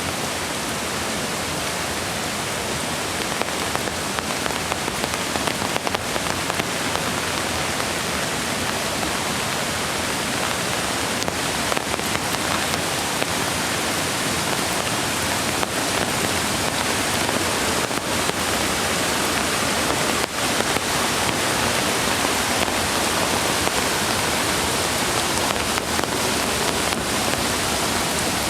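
Steady hiss of rain falling on a forest, mixed with the rush of running creek water.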